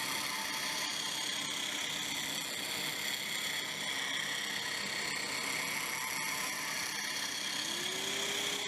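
CNC machine cutting metal: a steady high-pitched spindle whine with the hiss of the cut. Near the end a lower tone glides upward.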